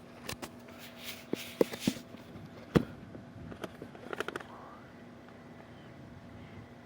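A scatter of sharp clicks and knocks with brief rustling, bunched in the first four and a half seconds, over a faint steady hum.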